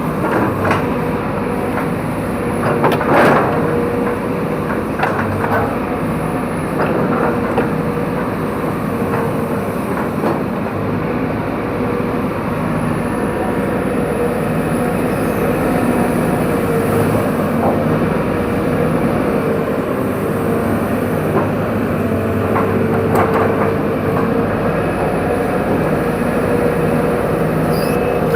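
Excavator's diesel engine running steadily under load, with clanks and squeaks from its steel tracks and arm and a sharp knock about three seconds in. A reversing beeper starts right at the end.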